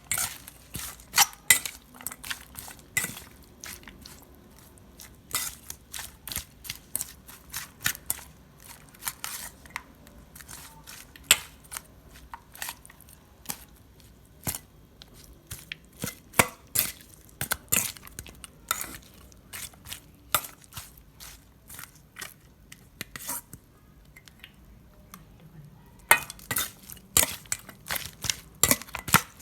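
Kitchen utensils and cookware clicking and clattering in irregular sharp knocks, with a quick run of taps near the end.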